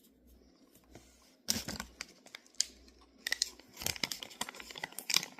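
Food packaging being torn open and crinkled: a dense crackling and rustling with sharp clicks that starts about a second and a half in, louder near the middle and near the end.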